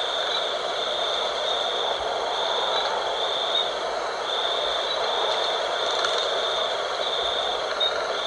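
Night-time wind blowing steadily, with insects trilling high-pitched in long repeated phrases broken by short gaps.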